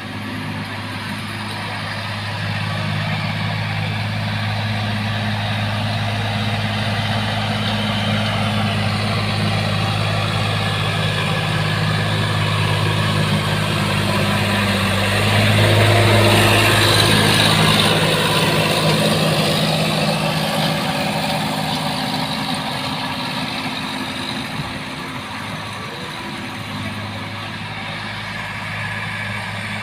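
Sonalika DI 50 RX tractor's diesel engine running steadily with a low, even hum. It grows louder toward the middle and then fades back.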